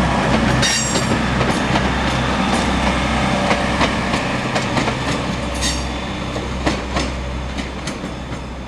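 A train moving slowly over the track: a steady low engine hum, with wheels clicking over rail joints and short high squeals from the wheels. It is loudest about a second in and then slowly fades.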